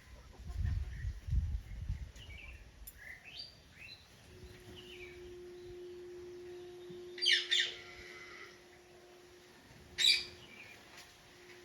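Bird calls: scattered small chirps, then two loud harsh calls, one about seven seconds in and another about ten seconds in. A steady low hum comes in about four seconds in, and a low rumble sits under the first two seconds.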